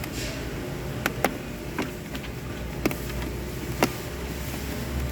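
Hand tools working on metal truck parts: about five sharp, separate clinks and knocks, irregularly spaced, over a low steady hum.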